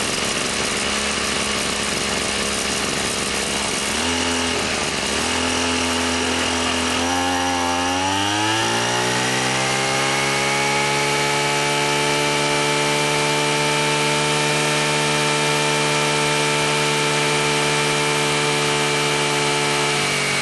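Kubota brush cutter's small two-stroke engine running after a rebuild of its seized piston and cylinder. It runs low at first, then is revved up over a few seconds and held at a steady high speed, starting to slow near the end.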